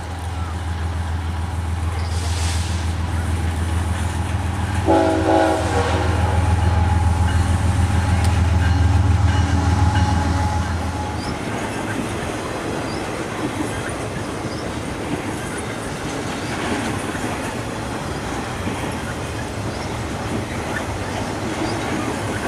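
Diesel locomotives of a BNSF intermodal freight train approach and pass with a deep engine drone that grows louder, with a short horn blast about five seconds in. About eleven seconds in the engine drone drops away and the trailer-carrying flatcars roll by with steady wheel-on-rail noise.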